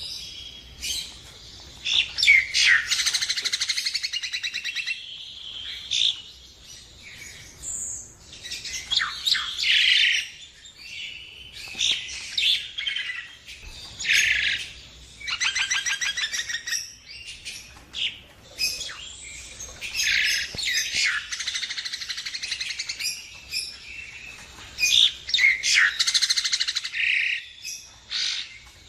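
Nias hill myna calling in a varied run of loud whistles, chatter and rapid rattling trills, coming in bursts of a second or two with short pauses between.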